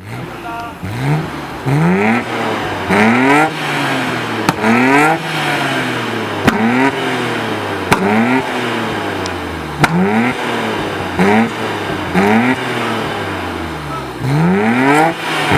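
Car engine with an aftermarket exhaust revved repeatedly in quick throttle blips, each one rising in pitch and falling back, with a few sharp pops in between.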